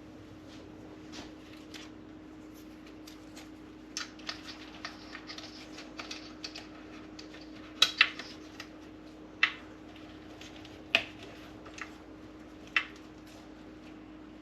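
Scattered sharp plastic clicks and small handling noises as a cable tie is fitted around the coffee maker's wiring, over a faint steady hum.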